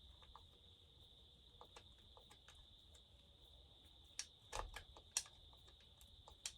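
Faint, scattered clicks and taps of a hand tool working the fasteners on a McCulloch chainsaw's intake boot as it is tightened down, with a few louder clicks about four to five seconds in and one near the end. A steady faint high-pitched hiss runs underneath.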